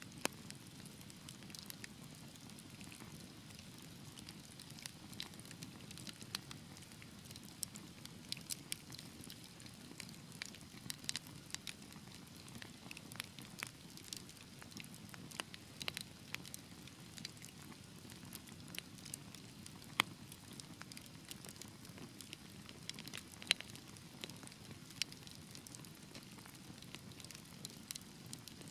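Wood fire in a fireplace crackling: a steady low rumble of flames with frequent sharp pops and snaps at irregular intervals, two of them louder in the second half.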